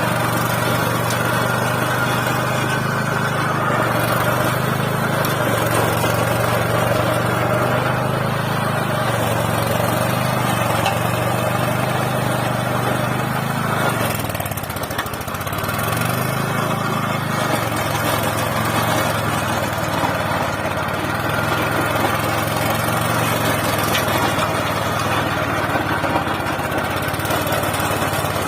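Engine of a 12 HP mini tractor (power tiller) running steadily while its rotary tiller cultivates soil. Its note dips once about halfway through and then recovers.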